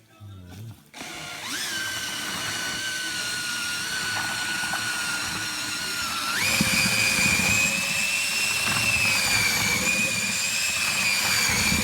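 A small electric motor, as in a handheld power tool, spins up about a second in and runs steadily with a whine. About six seconds in it steps up to a higher speed.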